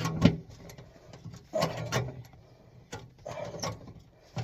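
Hand crimper squeezing the end of a sheet-metal duct pipe, a few separate crunching metal clicks spaced about a second apart.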